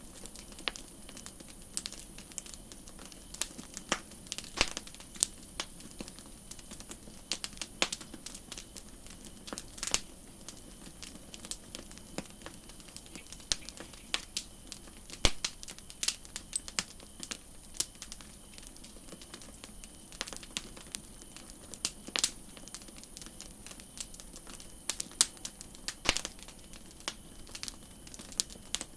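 Wood campfire crackling: irregular sharp pops and snaps, several a second, over a steady soft hiss.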